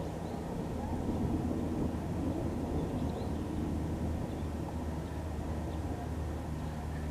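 A steady low engine hum, with faint high chirps of birds above it.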